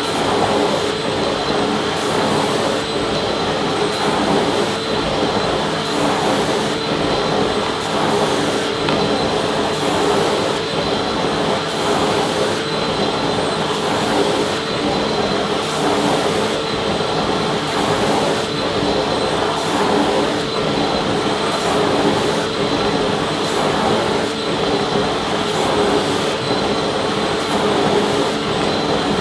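Vacuum cleaner running steadily: an even rush of air with a constant motor hum and high whine.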